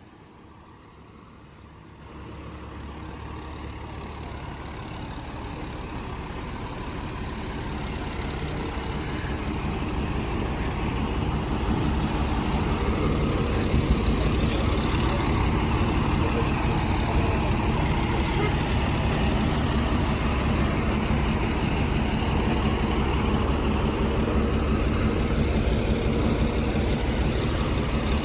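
Diesel engine of a Seagrave Marauder II fire engine running, growing steadily louder over the first dozen seconds as the truck comes closer, then holding steady close by.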